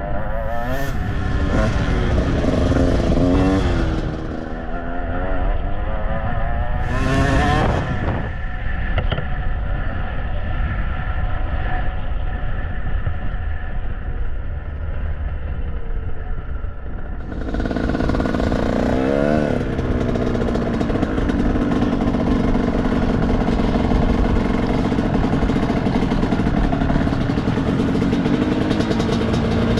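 Dirt bike engines running on a motocross track, revving up and down through the gears in repeated sweeps.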